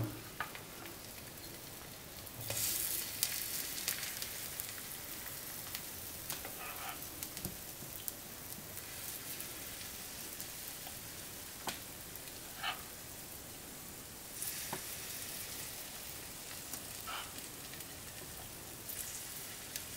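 Spoonfuls of omelette batter frying in olive oil in a non-stick pan, a soft steady sizzle that swells twice as fresh spoonfuls go into the oil. A few light clicks of the metal spoon.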